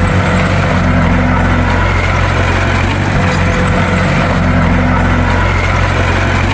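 Bulldozer's diesel engine running steadily, a deep, even drone with a slight change in its note twice.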